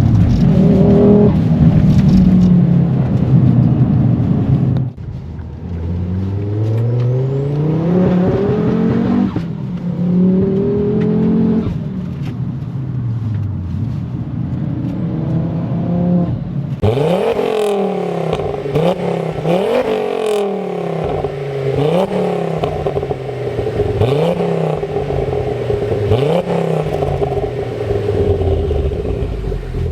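Mk2 Ford Focus RS's turbocharged five-cylinder engine, running a big-turbo stage 3 tune, accelerating hard. Its pitch climbs and then drops back again and again. From about halfway the rises turn shorter and more even, about one every two seconds, with more hiss and crackle on top.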